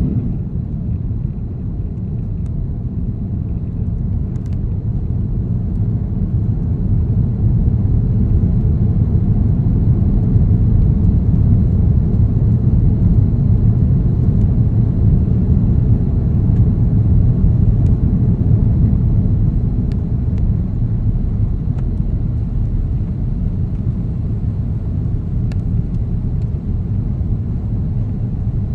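Steady low rumble of an Airbus A330-900 heard inside the passenger cabin: Rolls-Royce Trent 7000 engines and airflow in flight. It swells slightly and eases off again without a break.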